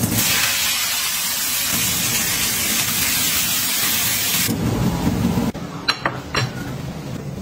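Leafy greens dropped into hot oil in a wok, sizzling loudly; the sizzle cuts off about four and a half seconds in. Near the end come a few sharp ceramic clinks as a bowl is set down on a table.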